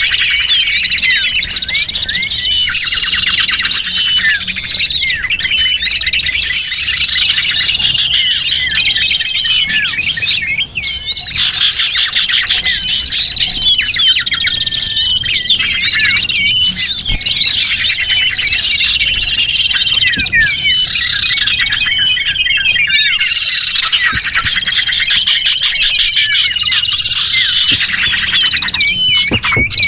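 Many small birds chirping and twittering at once in a dense, unbroken chorus of quick, high calls and trills. This is a bird-lure recording (suara pikat) played to draw small songbirds in.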